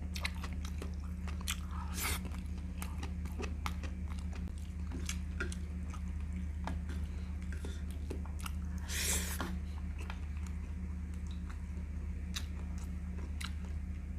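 Close-miked chewing and biting of stir-fried cauliflower and chicken, eaten by hand, with many small wet mouth clicks and a louder breathy noise about nine seconds in. A steady low electrical hum runs underneath.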